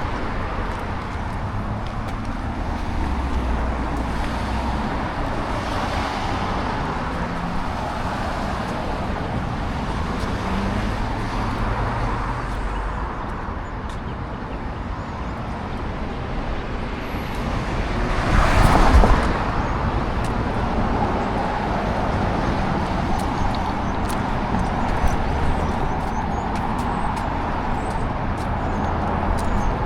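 Road traffic noise, a steady rush of passing cars, with one vehicle passing close about two-thirds of the way through, swelling and then fading.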